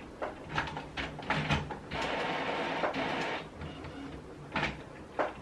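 Epson WorkForce WF-3620 inkjet printer running its print head cleaning cycle: a series of mechanical clicks and knocks, with a steady motor whir lasting about a second and a half in the middle.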